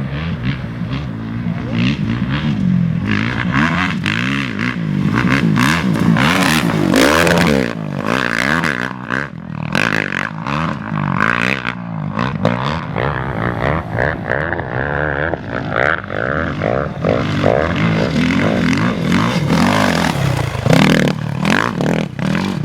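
Off-road race motorcycle and quad engines running hard and revving, their pitch rising and falling, with one pitch dropping away about two-thirds of the way through. Frequent sharp knocks and clatter run through it.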